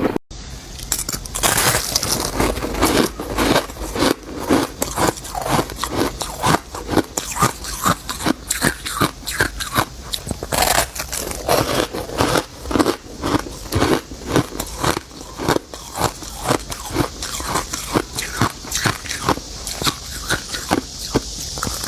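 Freezer frost (soft white ice) being bitten and chewed, with many quick, crisp crunches a second.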